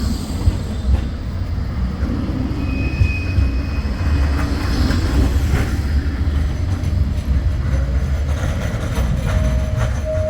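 Bombardier Flexity 2 tram running along the track: a steady low rumble with scattered clicks from the wheels and rails. A brief high tone sounds about three seconds in, and a steady tone comes in near the end.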